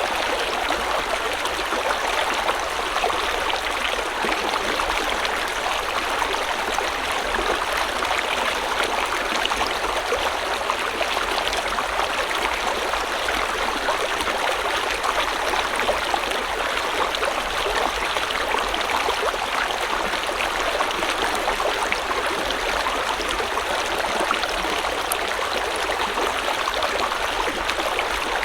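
River water flowing steadily, a continuous rushing and splashing of a stream over rocks with no breaks.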